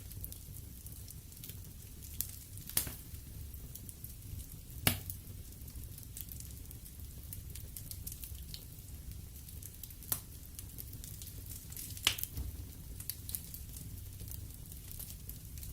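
Wood fire burning in a fireplace: a steady low rumble of flames with scattered faint crackles and a few sharp pops from the burning logs, the loudest about five seconds in and another near twelve seconds.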